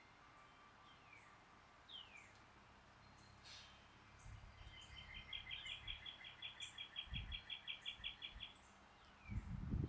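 Faint songbirds singing: a few short whistled notes sliding down in pitch, then a rapid even trill of about six notes a second lasting some three and a half seconds. A low wind rumble on the microphone comes and goes in the second half.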